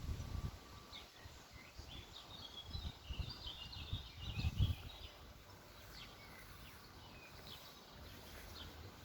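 Birds chirping and singing in short high phrases, busiest in the first half. Low rumbling bumps, like wind or handling on the microphone, come and go during the first five seconds.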